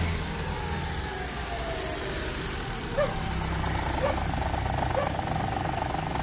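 Mitsubishi Mirage engine idling steadily after revving, now running with its rat-bitten fuel pump wiring spliced back together. Three short chirps come about a second apart midway through.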